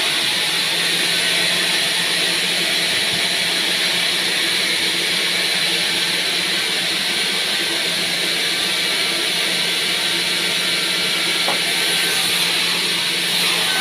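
Sawmill band saw running steadily through a pine log: a constant hiss of the blade over a low motor hum.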